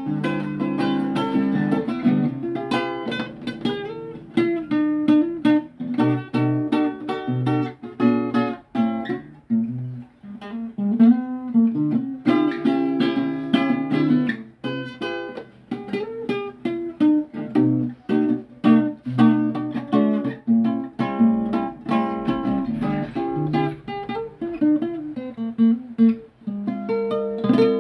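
Acoustic guitar improvising: single plucked notes and occasional strummed chords, each note ringing out, with brief pauses between phrases.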